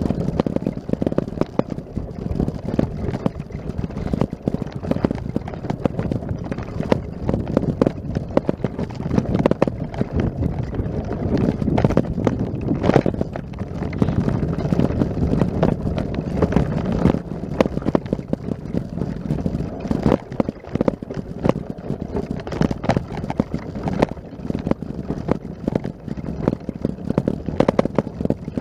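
Footsteps on snow, a long run of irregular steps.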